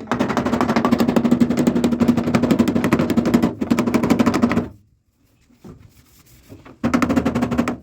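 A power tool rattling with fast, even strokes while working on the car's body. It runs for about four and a half seconds, stops, then starts again briefly near the end.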